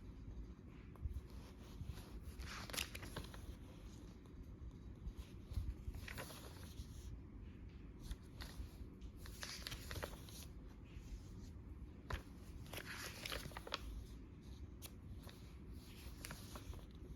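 Faint paper handling: pages of a thick, sticker-laden hardcover journal being turned, with a soft crinkle every few seconds.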